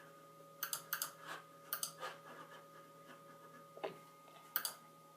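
A handful of short, sharp clicks and taps, scattered irregularly, over a faint steady electrical hum from the running computer.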